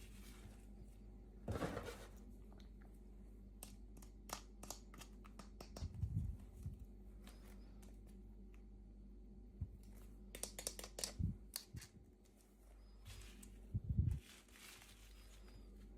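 Packaging being handled and opened by hand: crinkling and tearing with scattered small clicks and taps, and a few soft thumps.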